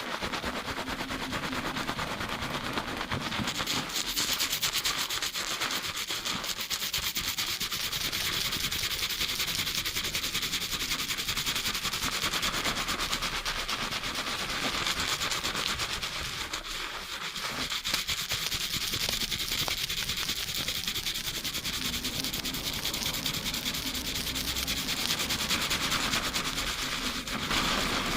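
Fast shampooing: fingers rapidly scrubbing a lathered scalp and hair, a dense, steady rubbing of foam.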